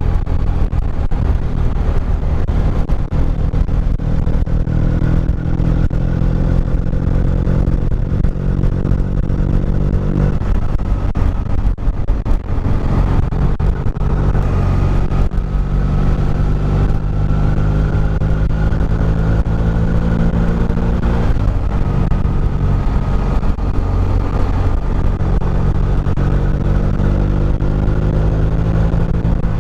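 Motorcycle engine running under way, its pitch rising as it accelerates and dropping back about ten seconds in and again about twenty-one seconds in, as at upshifts, over a steady low road rumble.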